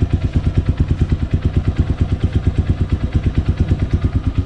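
Motorcycle engine idling steadily while warming up, with an even beat of about ten pulses a second; its oil has just been treated with EGB Safety Engine Lube additive.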